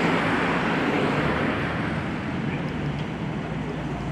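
A car engine running steadily, with a constant rushing noise around it.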